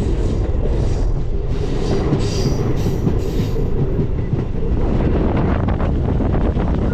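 MEMU express train running on the track, with a steady loud rumble of wheels on rails. A brief high-pitched squeal comes in about two seconds in and lasts a second or so.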